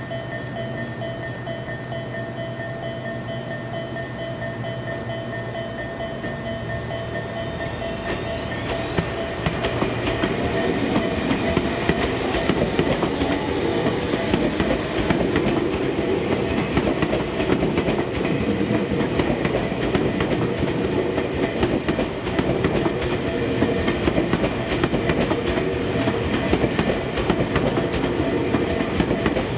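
Tobu Tojo Line electric train: a steady whine that rises in pitch about eight seconds in as the train gets moving, then a loud, continuous clatter of wheels over the rail joints as it runs past.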